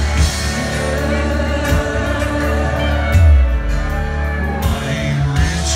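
Live band playing a rock song, with a voice singing over electric guitar, bass and drums.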